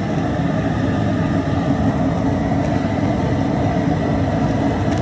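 Steady, loud roar of a propane burner firing under the crawfish boil pot.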